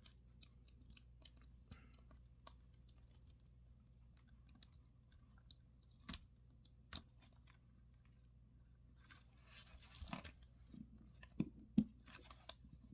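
Faint small clicks and scrapes of a Casio MDV106's screw-down caseback being turned onto the watch case by hand. A brief patch of scraping comes about nine seconds in, followed by a few sharper clicks near the end.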